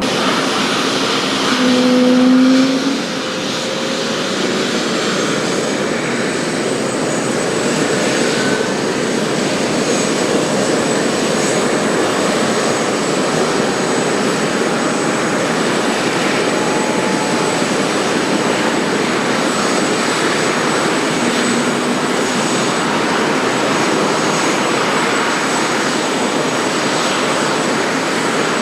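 Sikorsky S-76C helicopter's twin turbine engines and rotor running steadily, with a thin high turbine whine over the engine and rotor noise. A short low tone sounds about two seconds in.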